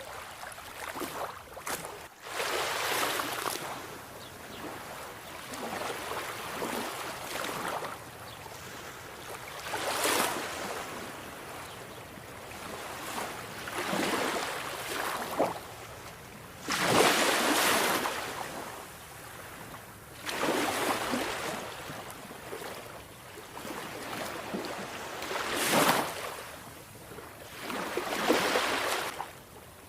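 Sea waves breaking and washing up the shore, one swell of surf every few seconds.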